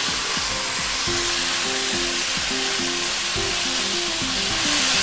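Water spinach stir-frying in smoking-hot oil in a wok: a steady sizzle as the wet greens fry, turned over with a wooden spatula.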